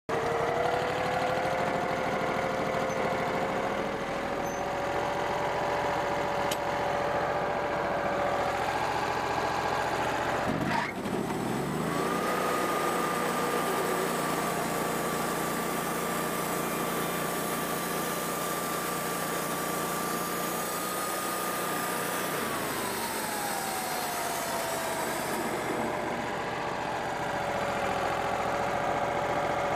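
Wood-Mizer band sawmill's engine idling steadily, then revved up about a third of the way in and held at a steady high speed for about ten seconds, with a hiss above it as the band blade saws through the black walnut log. It then winds back down to idle.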